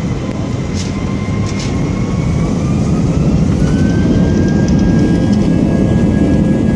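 Boeing 737 jet engines spooling up for takeoff: a whine rises in pitch, then holds steady over a heavy rumble that grows louder.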